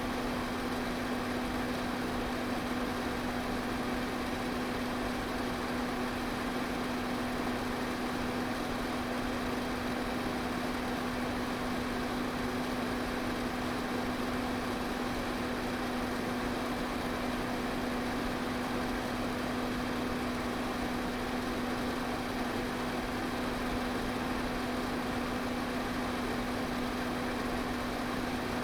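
Pedestal fan running steadily: an even whoosh of moving air over a constant motor hum.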